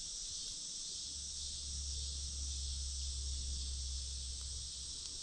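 Steady high-pitched chorus of crickets or other insects, with a low rumble starting about a second in.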